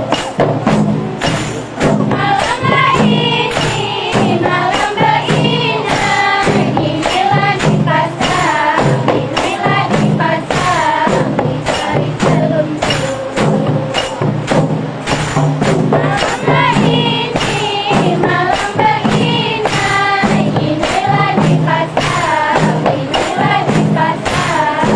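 Rebana ensemble playing: frame drums and jingles keep a steady, fast beat while voices sing a melody over them.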